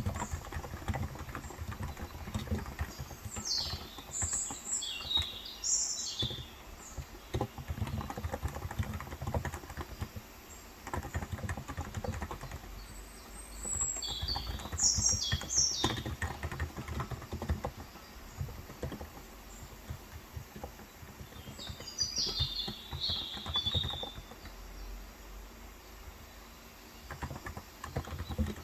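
Typing on a Cox Endeavor electrocapacitive tenkeyless keyboard with 35 g switches: a steady, fast run of soft key strokes. Birds chirp over it three times, about 3 s in, halfway through and about 22 s in.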